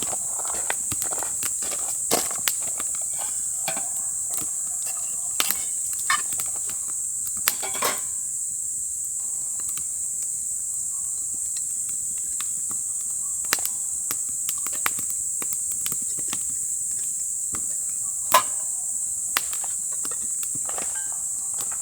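Steady high-pitched chirring of crickets, with scattered light knocks and clicks over it, the sharpest one about three-quarters of the way through.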